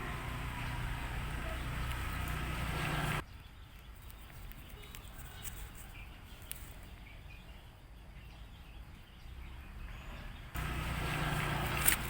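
Outdoor background noise: a low rumble with faint bird chirps. It drops away abruptly about three seconds in and comes back near the end, where there is a sharp click.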